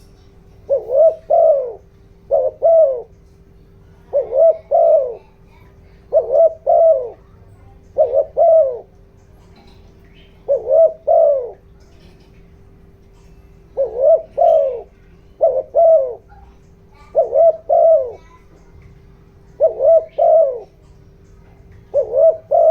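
Spotted dove cooing, a lure call: short phrases of two quick coos repeated about every two seconds, over a faint steady hum.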